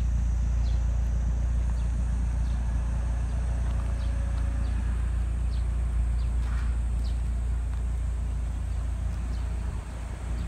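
Nissan Silvia S13's engine idling steadily at the exhaust, with light crunching footsteps on gravel.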